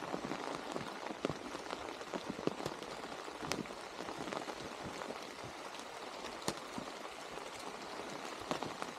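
Steady rain falling, with individual drops ticking irregularly on a nearby surface.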